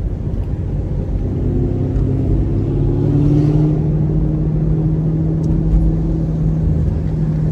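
Chevrolet Camaro SS 1LE's naturally aspirated V8, fitted with long-tube headers and an aftermarket exhaust, droning at low revs while cruising; its pitch rises a little about two seconds in and then holds steady.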